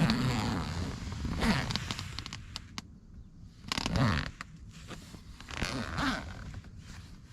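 Rustling and scraping of fabric or gear being handled, in about four bursts, the loudest about a second and a half in and about four seconds in.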